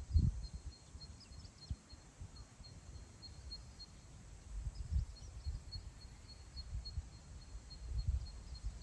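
Wind gusting across open grassland, buffeting the microphone in irregular low rumbles. A faint high chirp repeats steadily about three times a second.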